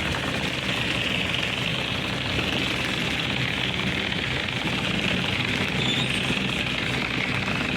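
Coin-operated car-wash pressure washer running: a steady hiss of spray over the low hum of the pump motor.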